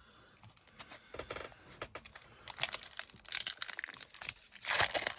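Crinkling and tearing of a foil Pokémon booster pack wrapper, in irregular scratchy bursts that pick up about halfway through.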